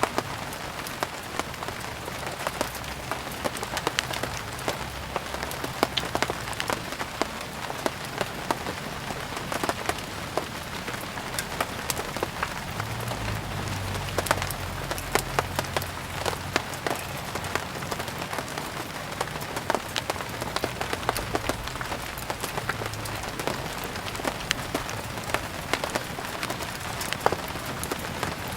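Steady rain and a crackling wood fire mixed together: a constant hiss dotted with frequent sharp pops and crackles. A low rumble swells briefly about halfway through.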